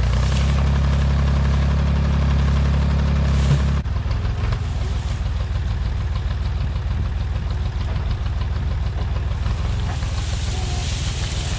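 Engine of an old Massey Ferguson tractor-backhoe running steadily; about four seconds in its even drone changes to a rougher, pulsing throb.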